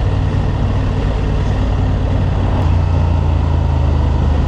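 Honda Transalp's 755 cc parallel-twin engine running under way, with wind and road noise; its note drops a little about three seconds in.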